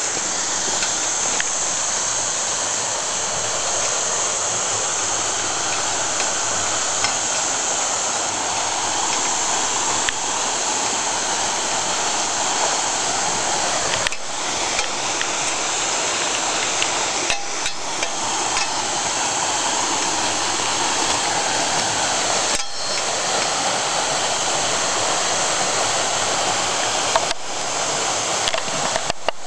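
Waterfall rushing in a steady, even roar of falling water, broken by a few brief clicks.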